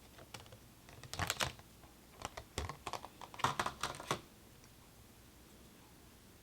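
Irregular light clicks and taps of small PC parts and packaging being handled. They come in a short cluster about a second in and a denser run from about two to four seconds in, then stop.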